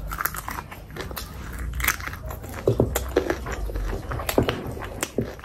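Close-miked eating sounds of a person chewing and biting curry: irregular wet smacks and clicks of the mouth and lips.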